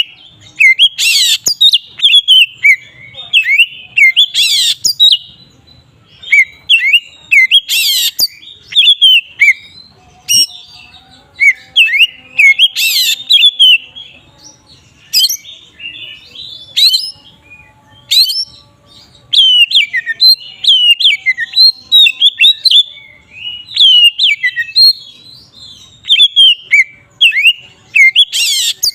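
Oriental magpie-robin (kacer) singing continuously: a long, varied run of clear whistled notes sliding up and down, broken every few seconds by loud harsh rasping notes.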